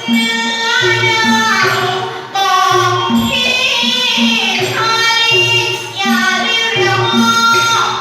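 A solo voice singing a melodic Thai song over instrumental backing. The backing has a steady, bouncing bass line.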